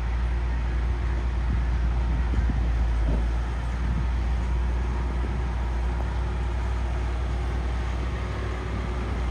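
Heavy diesel engine of a construction machine running steadily, a strong low engine note that holds level throughout.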